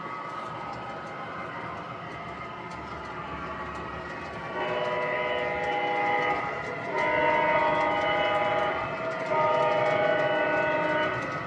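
Onboard sound system of an MTH O-gauge ES44AC model diesel locomotive: recorded diesel engine running, then three horn blasts, the first about four and a half seconds in.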